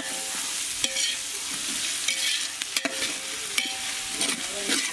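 Onions, carrots, green chillies and whole spices sizzling as they fry in Dalda in a large metal pot, while a flat metal spatula stirs them, scraping and knocking against the pot now and then.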